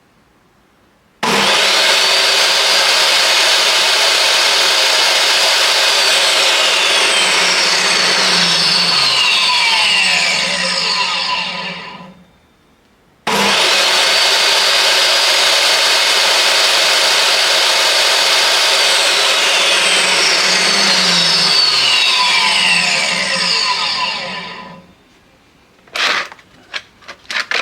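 DeWalt DW745 table saw motor switched on twice, each time starting suddenly, running steadily for about eight seconds, then switched off and winding down with a falling whine. The new switch is latching and keeps the saw running. A few sharp knocks near the end.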